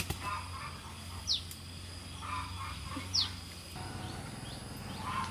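A bird calling with a short, high, falling whistle, twice about two seconds apart, over softer chattering calls, with one sharp click at the very start.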